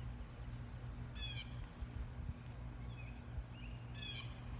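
A bird calling twice, each time a short run of high, quickly falling chirps, about a second in and again near the end, over a steady low hum.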